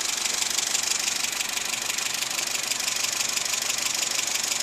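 Classic car engine idling steadily with an even, fast ticking beat, its ignition timing just returned to the original advance by a 123ignition electronic distributor.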